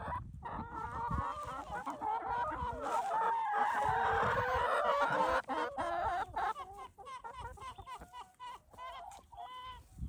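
A flock of chickens clucking and calling, many voices overlapping at once, thinning to a few separate calls after about five seconds.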